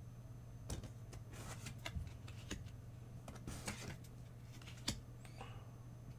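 Trading cards being handled: irregular light clicks and soft swishes as the cards are slid and flicked one behind another.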